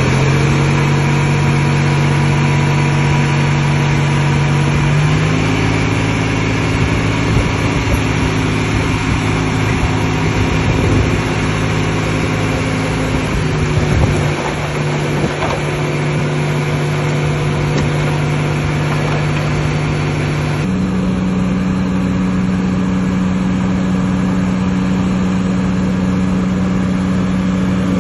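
Heavy diesel engine running steadily, its speed shifting in steps three times.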